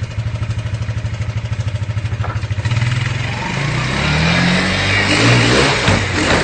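Quad bike engine idling with an even chug, then revved hard about two and a half seconds in, getting louder with its pitch rising and wavering.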